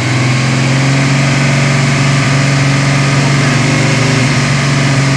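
Ford 302 small-block V8 in a Mustang idling steadily, loud and even, on one of its first runs after a two-year rebuild.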